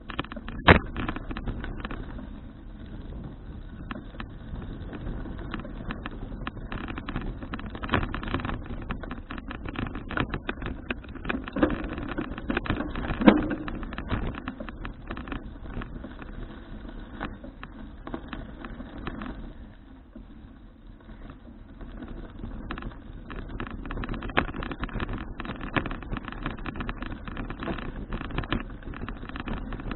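Wind and road noise of a folding bicycle being ridden, picked up on an action camera, with scattered clicks and knocks from the bike rattling over the road. There is a sharp knock about a second in, a few louder knocks later on, and a brief lull before the rumble picks up again.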